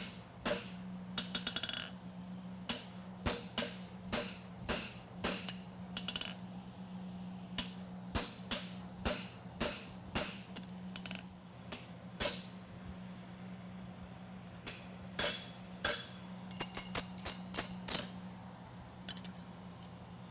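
Hammer blows on an oval punch, driving nail holes through a steel horseshoe on the anvil: sharp ringing metal strikes, about one or two a second, with a short lull in the middle. A steady low hum runs underneath.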